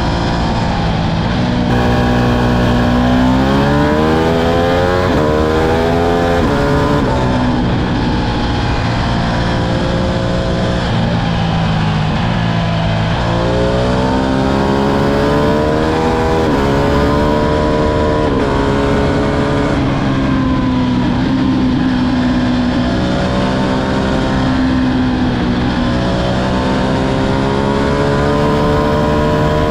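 Ducati Streetfighter V2's 955 cc Superquadro L-twin engine under way. The revs climb hard twice, first a few seconds in and again near the middle, dropping back in between. They then hold steady for a stretch and build again near the end.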